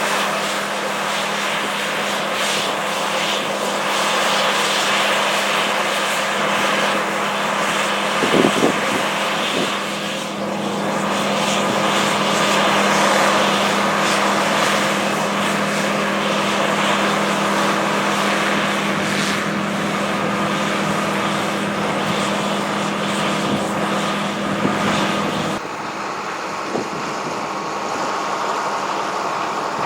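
John Deere 9660STS combine harvester running steadily at work, a droning engine hum under the rushing noise of the machine. There is a brief bump about eight seconds in, and the sound changes abruptly near the end.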